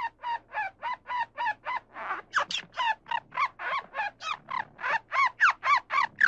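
Squirrel chattering: a rapid, even run of short pitched calls, about four a second, getting louder near the end.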